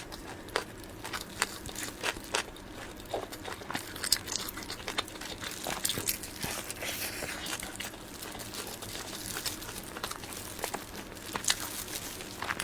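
Close-miked eating sounds of soft sponge cake roll with cream filling: scattered wet mouth clicks and smacks while chewing, with a few sharper crackles.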